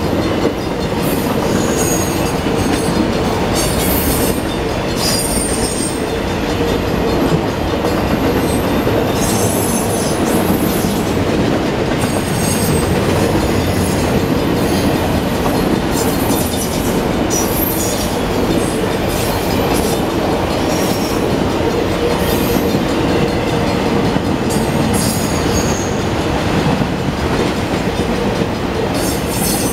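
Autorack freight cars rolling past on steel rails: a loud, steady rumble of wheels on track, with brief high-pitched wheel squeals coming and going throughout.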